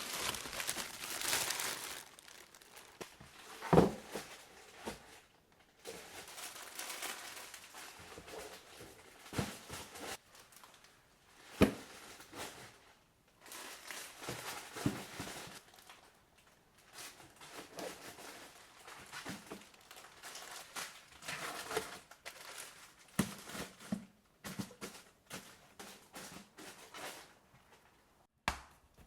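Plastic packaging crinkling and rustling as food items are handled and sorted, with occasional sharp knocks of items being set down.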